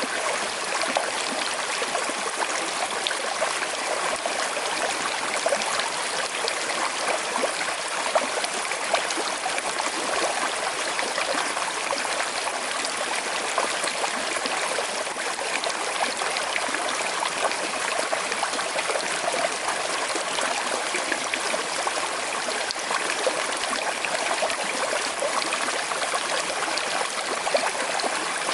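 Small river flowing steadily over stones with a slight current, a continuous babble and trickle with small splashes.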